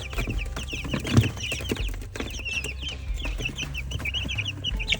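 A brood of young chicks peeping rapidly and continuously, many short high chirps each second, with a sharp knock about a second in.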